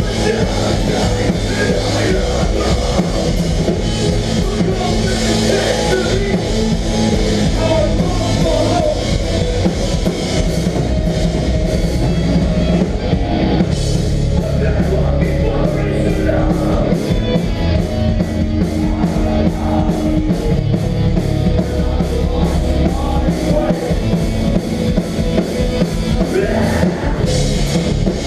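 Melodic hardcore band playing live at full volume: distorted guitars, bass and a drum kit, with a run of fast, evenly spaced drum hits around the middle.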